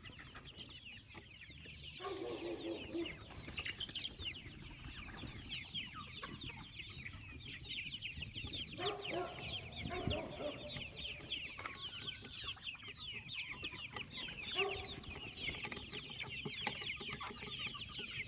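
A flock of young chicks peeping: many short, high, downward-sliding chirps overlapping without pause, with a few lower clucks now and then.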